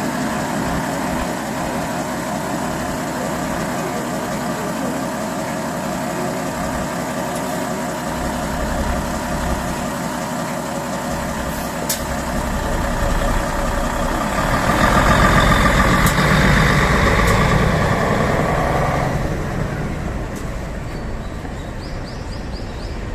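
Diesel engine of a Mitsubishi Fuso Aero Star non-step bus running with a rattly clatter, growing louder for about four seconds roughly fifteen seconds in, then settling back.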